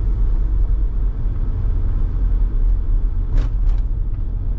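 Steady low rumble of a road vehicle on the move, with a few brief high hissing sounds about three and a half seconds in.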